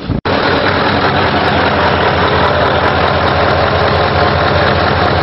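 Scania R580's V8 diesel idling steadily through twin exhausts.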